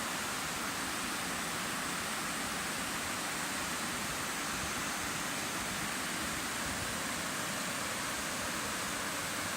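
Mountain stream water rushing over rocks: a steady, even rush with no breaks.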